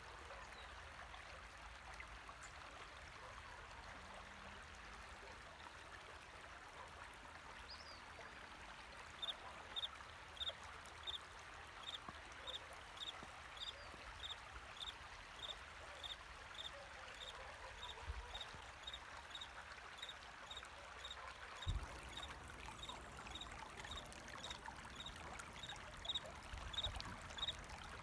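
Steady trickling of flowing stream water, with a cricket starting to chirp about a third of the way in: short high chirps repeated at roughly one to two a second.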